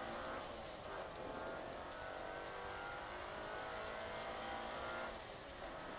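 Peugeot 106 S16's 1.6-litre 16-valve four-cylinder engine heard from inside the rally car's cabin, pulling hard with revs climbing steadily, with a short drop in pitch about a second in and another near the end, over tyre and road noise.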